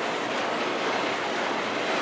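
Double-stack intermodal container train rolling past, a steady noise of steel wheels running on the rails under the loaded well cars.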